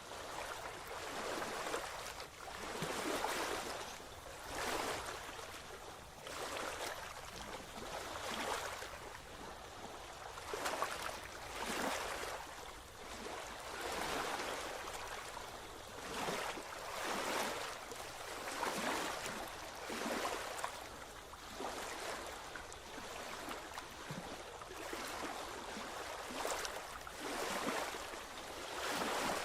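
Small waves washing up on a beach, surging and receding every second or two.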